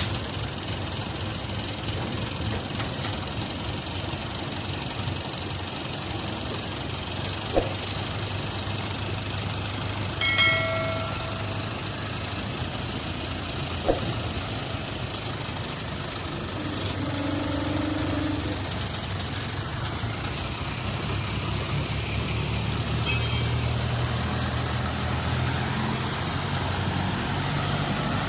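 Heavy vehicle engine running steadily, with a few sharp knocks and a metal clang that rings briefly about ten seconds in.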